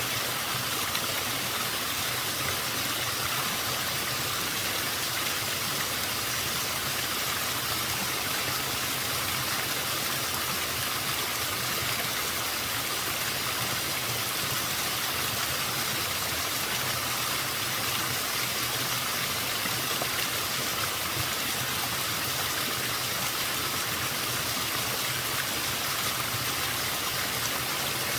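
Small waterfall running steadily at a somewhat low flow: an even, unbroken rush and splash of falling water.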